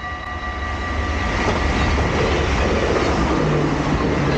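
Passenger train passing through a level crossing. Its wheel-on-rail rumble and clatter swell up over the first second or so and then hold loud and steady, covering the crossing's steady warning-bell tones.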